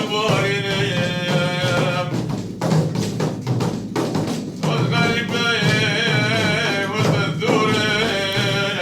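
A man singing a Sufi madh, a devotional praise song, in long wavering phrases over a steady drum beat. The voice drops out after about two seconds, leaving only the drums, and comes back about halfway through.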